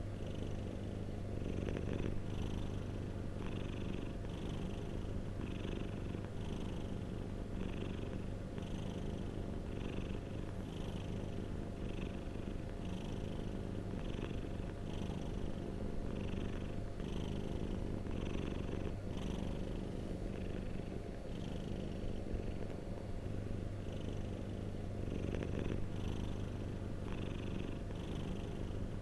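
Domestic cat purring steadily and continuously as a low rumble, with a faint hiss recurring a little more than once a second.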